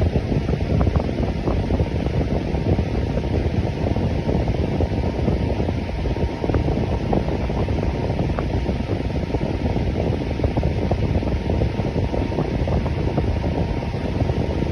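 Electric fan running steadily: an even rush of air, strongest in the low range, with a faint steady hum just under 1 kHz.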